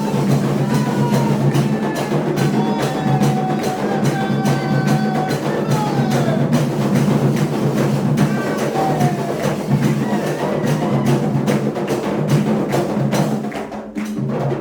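Candomblé drumming and percussion for Xangô: rapid, steady drum and wood-block-like strokes under a sung melody, dying away just before the end.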